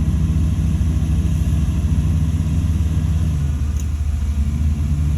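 Crawler bulldozer's diesel engine running steadily under load: a low, even drone whose pitch shifts slightly about three and a half seconds in.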